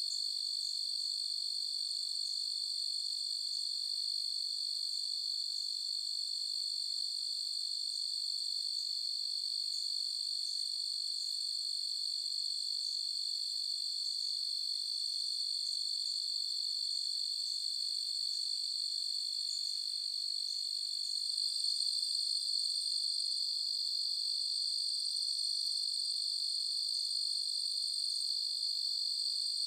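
Crickets trilling in a steady, continuous high-pitched chorus, growing slightly louder about two-thirds of the way through.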